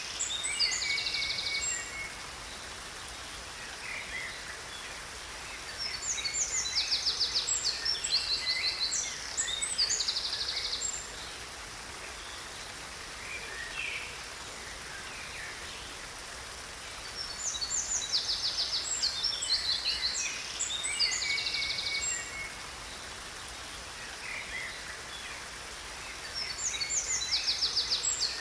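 Songbirds singing in bursts of chirps and rapid high trills, each several seconds long with quieter gaps between, over the steady rush of a waterfall.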